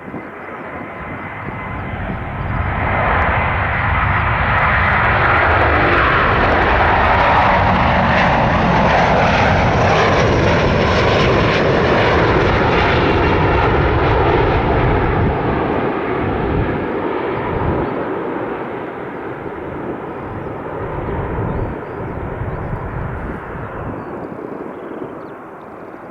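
Airbus A330-900neo's twin Rolls-Royce Trent 7000 turbofans at takeoff thrust: a jet rumble that swells over the first few seconds, stays loud for about ten seconds as the airliner passes, then slowly fades.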